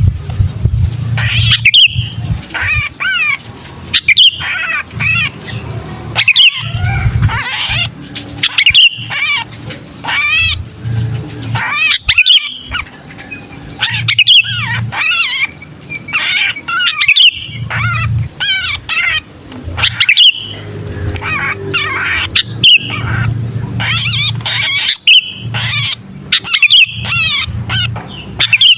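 Sooty-headed bulbul (kutilang) giving the frantic, harsh distress calls of a bird caught and held. The calls come as rapid bursts of quick up-and-down notes, again and again with short pauses, over a low rumble.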